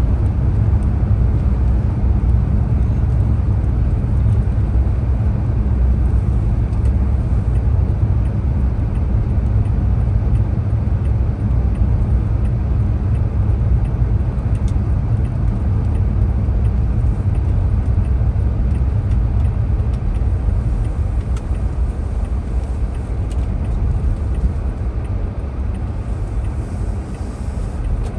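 Car driving at a steady pace, a continuous low engine and road rumble heard from inside the cabin.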